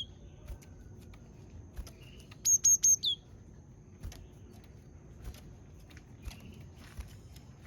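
Japanese tit singing: one quick phrase of four high, bright notes ending in a falling note, about two and a half seconds in, with a shorter soft call just before it. Faint ticks are scattered through the rest.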